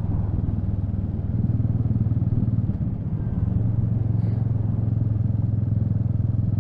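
Royal Enfield Meteor 350's single-cylinder engine running under way with an even exhaust beat, easing briefly about three seconds in before pulling again.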